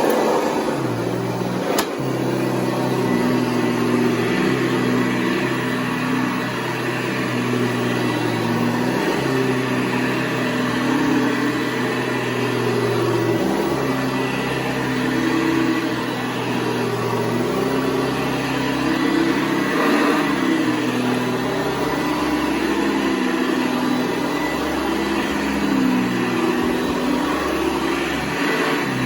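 Hoover Convertible U4173 upright vacuum cleaner running, its motor fitted with a 12-blade metal fan in place of the original 11-blade plastic one. The motor's pitch wavers up and down every few seconds, with a sharp click about two seconds in.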